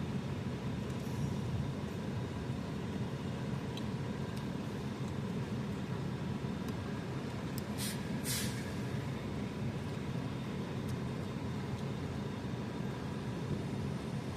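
Heavy engine of site machinery running steadily, with two short sharp hisses of released air about eight seconds in.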